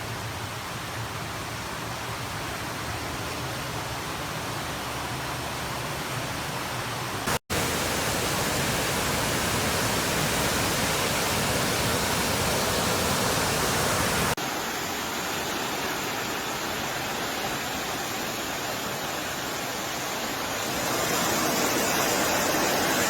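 Heavy rain and wind making a steady hiss, changing abruptly twice, with a brief drop-out about seven seconds in.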